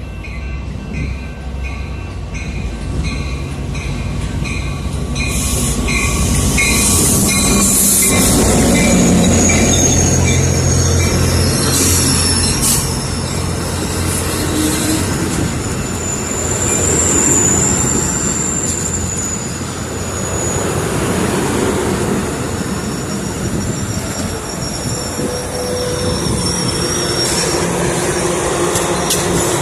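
Train passing through the station at close range: rumble of the cars on the rails and high wheel squeal. A ringing tone repeats about one and a half times a second during the first few seconds.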